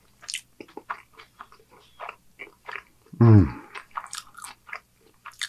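Close-miked chewing of a bite of homemade cheeseburger: many short wet mouth smacks and clicks. About three seconds in there is a brief loud vocal sound that falls in pitch.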